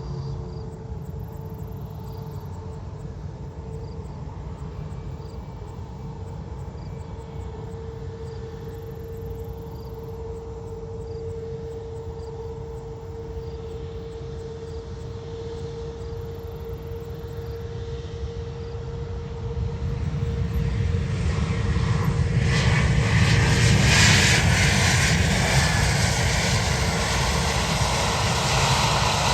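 Jet airliner engines: a steady tone over a low rumble, then, about two-thirds of the way through, growing much louder as the aircraft comes close, loudest a few seconds before the end.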